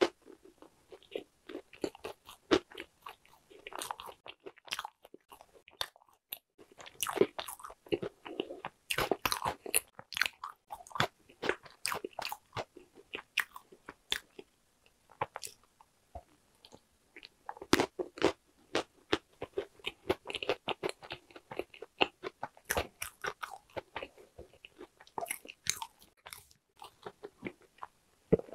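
Close-miked chewing of walnut cakes (hodu-gwaja): crisp crunching as the walnut pieces and baked shell break between the teeth, coming in bursts of rapid crackles with short pauses between.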